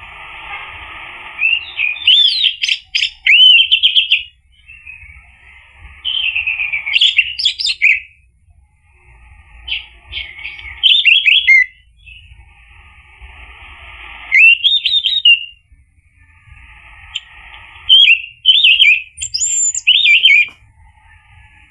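Orange-headed thrush singing: about five loud phrases of quick, varied whistled notes and slurs, a second or two apart, with a faint steady hiss between them.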